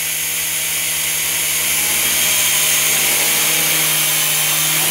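Electric motors and plastic rotors of a Protocol Tigerjet three-channel toy RC helicopter whirring steadily in flight, one even motor hum with a high airy hiss.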